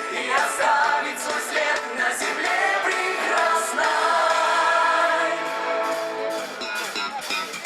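Live pop song by a Soviet-style vocal-instrumental ensemble, several voices singing together over the band, holding long notes in the middle of the stretch. It sounds thin in the bass.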